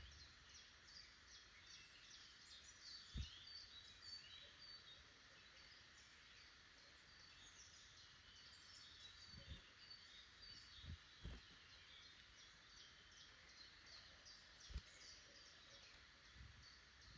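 Faint woodland birdsong: several small birds chirping and trilling throughout, busiest in the first half, over a soft outdoor hiss, with a few soft low thumps scattered through.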